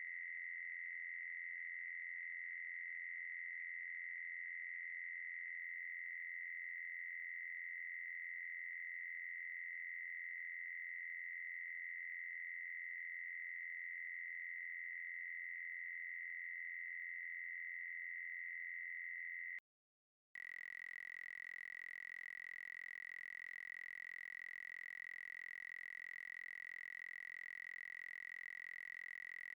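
A steady, high-pitched electronic tone held on one unchanging pitch. It breaks off for under a second about twenty seconds in, then resumes a little quieter.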